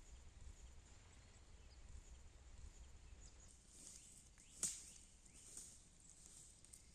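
Near silence: faint outdoor background with one short, sharp click a little past halfway.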